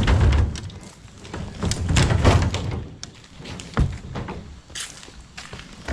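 A heavy load landing with a loud thud, followed about two seconds in by a longer rumbling thump as it is shifted, then a couple of sharp knocks.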